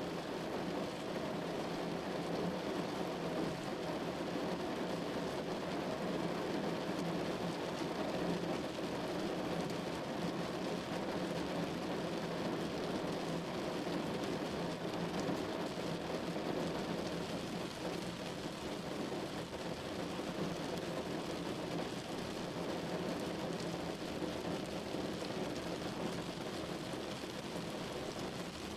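Steady rain falling on a window pane: a dense, even patter with no breaks or single loud events.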